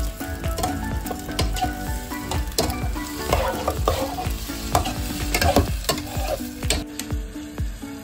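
Flower-cut squid, tomato and shallots sizzling in oil in a nonstick pot while a spatula stirs them, with repeated short clicks and scrapes of the spatula against the pan.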